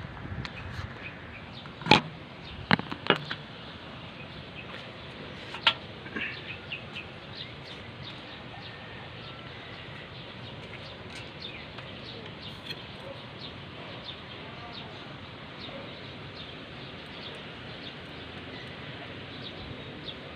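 A few sharp knocks, about two, three and six seconds in, over a steady outdoor hiss with many short, faint bird chirps.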